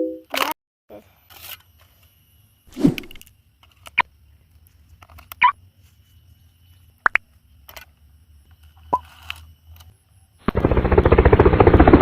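A few scattered clicks and knocks of handling, then, about ten seconds in, a loud rapid buzz starts suddenly: a toy remote-control helicopter's rotor spinning.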